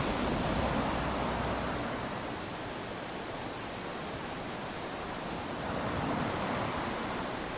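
Small waves washing up onto a sandy beach, a steady hiss of water with two gentle surges, one at the start and another about six seconds in.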